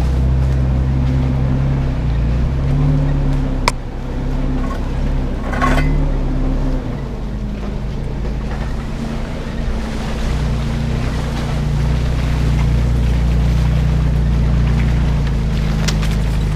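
Truck engine and drivetrain droning low and steady while driving off-road, with a sharp click a little under four seconds in and a short rough burst of noise around six seconds.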